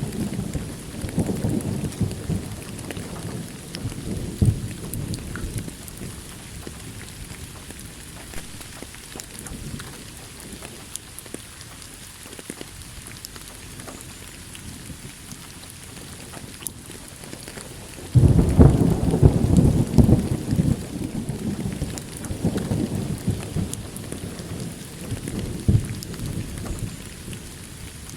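Steady rain with thunder: a rumble fades out over the first few seconds, and about two-thirds of the way in a sudden loud thunderclap rolls into a rumble that dies away slowly.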